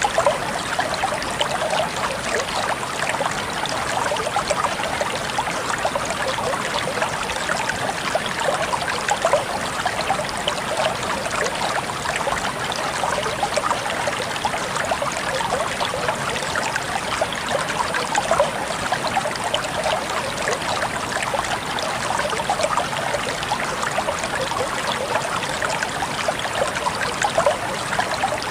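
Clear stream water trickling and babbling steadily over and between rocks.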